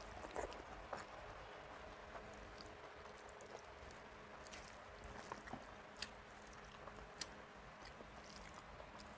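Faint close-up chewing of a mouthful of rice mixed with ridge gourd and potato in poppy-seed paste (jhinge aloo posto), with scattered soft wet clicks. Fingers squish more rice and posto together on a plate.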